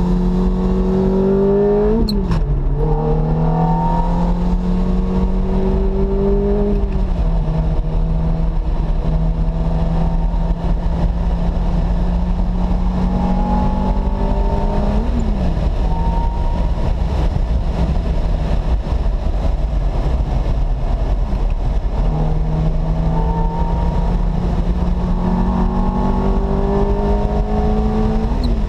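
Ferrari F430's V8 engine heard from inside the cabin at speed, pulling through the gears. The engine note climbs steadily and drops sharply at each gear change, about four times, easing off for a few seconds in the middle, with steady wind and tyre noise underneath.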